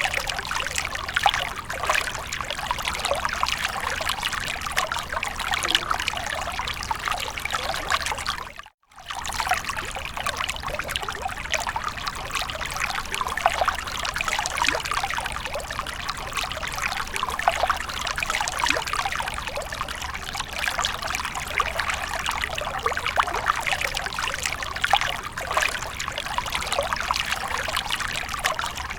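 Water fountain splashing and trickling steadily, a dense patter of small splashes. It cuts out for a moment about nine seconds in, then resumes.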